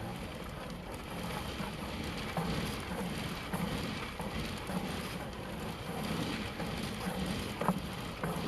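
Sewer inspection camera's push cable and reel rumbling and rattling irregularly as the camera is fed down a drain line, with wind noise on the microphone.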